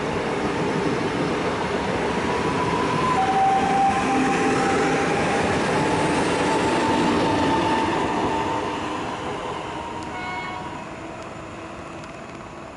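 PKP Intercity electric multiple unit passing along the platform: rushing wheel-on-rail noise with a faint motor whine. It fades as the train draws away after about eight seconds, and a brief tone sounds about ten seconds in.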